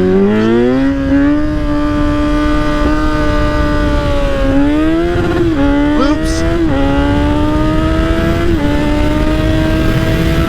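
Kawasaki Z900's inline-four engine through an aftermarket exhaust with its baffle missing, revving up hard in the first second, then held at high revs with four brief dips in pitch, over a rush of low noise.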